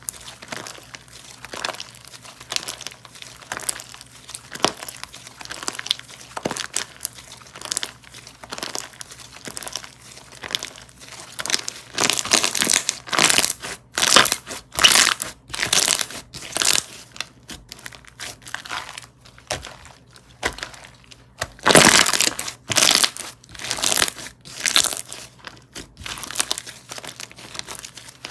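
Slime being squeezed, pressed and pulled by hand, giving many small crisp crackling pops, with louder, denser stretches of crackling about halfway through and again near the end.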